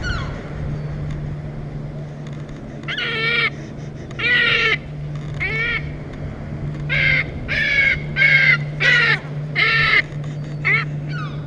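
A gull calling: about nine short, harsh squawks, coming quicker in the second half, over a steady low hum.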